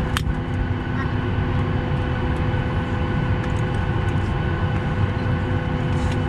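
Steady drone inside an airliner cabin on the ground, a low rumble with several held tones, with a sharp click just after the start.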